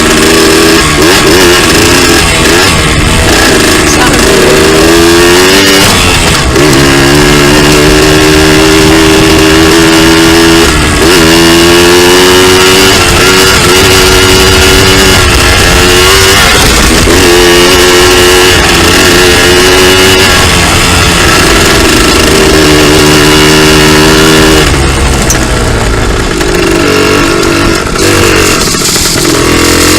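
Two-stroke dirt bike engine running under load, its pitch repeatedly climbing, holding for a few seconds and dropping as the revs rise and fall.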